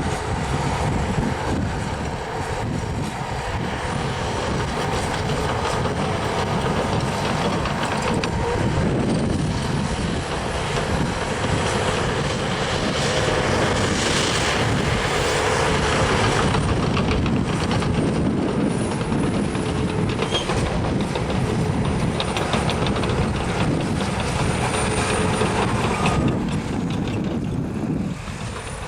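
Caterpillar crawler bulldozer's diesel engine working steadily under load, with its steel tracks clattering. The sound drops briefly near the end.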